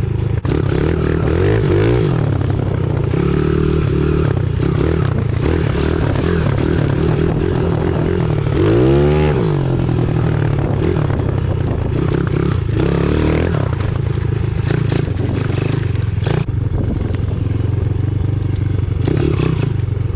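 Pit bike engine running under changing throttle, its pitch rising and falling, with one sharp rev that climbs and drops about nine seconds in.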